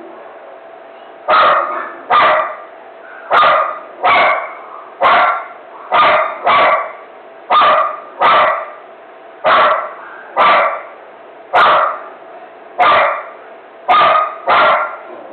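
A dog barking over and over, about fifteen loud barks, some single and some in quick pairs, roughly one a second, in a frenzied, nonstop run.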